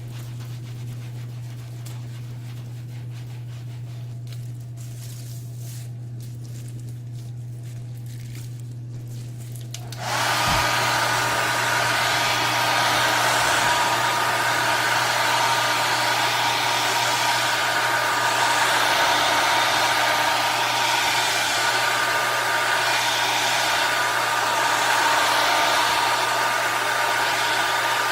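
A low steady hum, then about ten seconds in a hair dryer switches on with a short rising whine and runs steadily, a loud rush of air with a constant whine.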